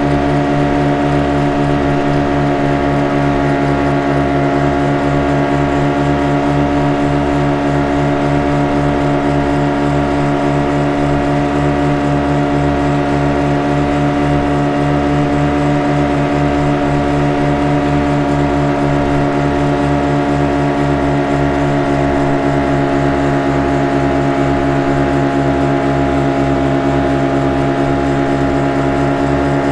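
Motorboat engine running steadily at a constant speed: an even, droning hum with a fast, regular throb underneath that does not rise or fall.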